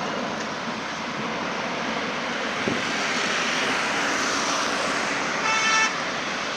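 Jet airliner engines, a steady rushing noise from an A320- or 737-type aircraft on or near the runway. A short horn sounds near the end.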